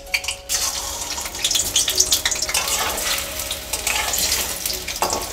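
Boiled potato chunks sizzling and crackling in hot oil in a kadai, the crackle starting about half a second in as they go into the oil. A metal spatula moves them around in the pan.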